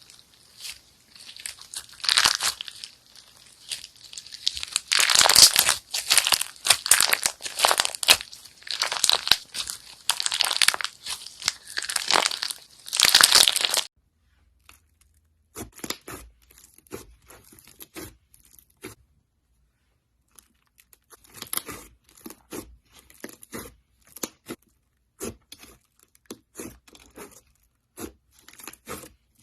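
Slime being worked by hand close up: dense crackling and crinkling for about the first half, then after an abrupt cut, quieter sparse sticky clicks and pops with short pauses between them.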